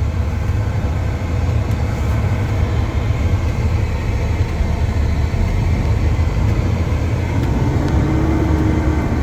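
Semi truck's diesel engine running steadily, heard from inside the cab as the truck creeps around the truck stop: a constant low rumble.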